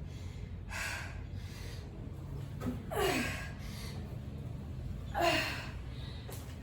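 A woman breathing hard and gasping with exertion during a high-intensity workout. The heavy breaths come about every two seconds, and two of them are voiced into short falling groans.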